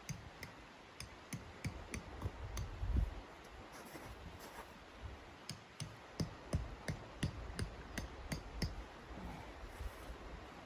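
An irregular run of sharp clicks and light clinks, a few a second, some with a brief ring, with a heavier low thud about three seconds in.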